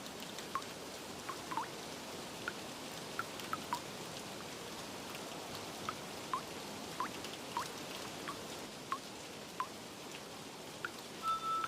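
Steady rain hiss with single water drops plinking about once a second, each a short falling ping. Near the end a sustained chime-like note starts.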